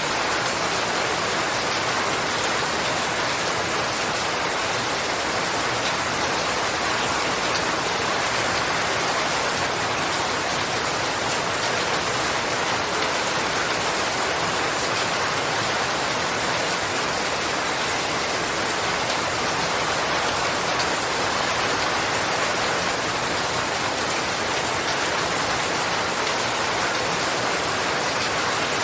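Steady, even rain falling, a dense hiss of drops with no single drops standing out.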